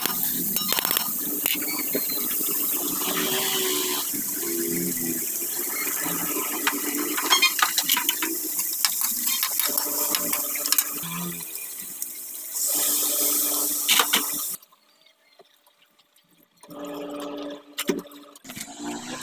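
Chicken feet and ginger sizzling in a hot wok, with a spatula scraping and clicking against the pan as they are stirred. The sizzle cuts off suddenly about three-quarters through, and quieter, broken sounds follow.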